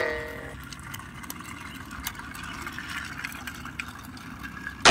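Faint clicks and taps of plastic toy train carriages being handled and fitted together, over a low steady background rumble. A ringing tone fades out in the first half second.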